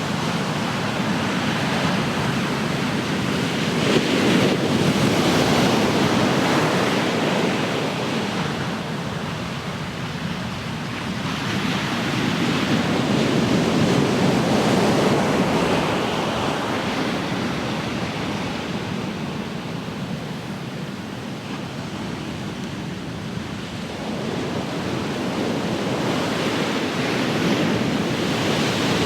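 Ocean waves breaking and washing on the shore, a continuous surf noise that swells three times and ebbs between.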